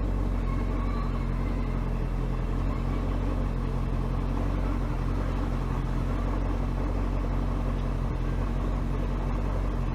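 Bayliner boat's inboard engine running steadily at low speed, a constant low hum. Its cracked block and exhaust manifolds are patched with epoxy putty.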